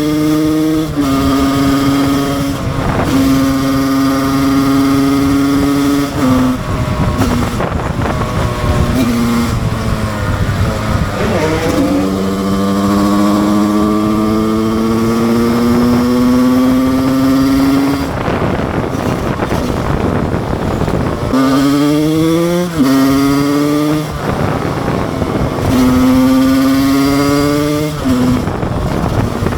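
2007 Husqvarna SM 125 two-stroke supermoto engine under way, ridden through the gears: its pitch holds, climbs and drops several times. There is a long slow climb midway and quick sharp revs near the end.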